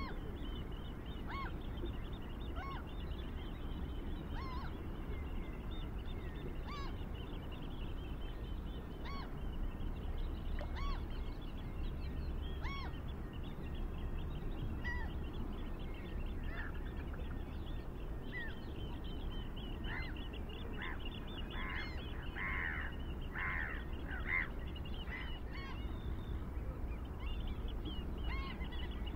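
Birds calling outside: short calls repeating every second or two, with a quick run of louder calls about twenty seconds in, over fainter high chirping and a steady low rumble.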